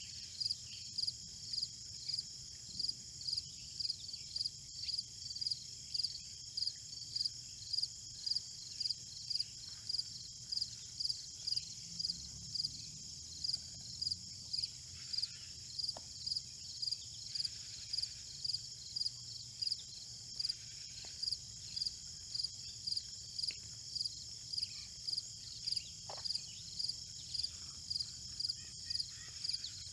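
Cricket chirping steadily, a short high chirp repeated about twice a second, over a continuous high-pitched insect trill.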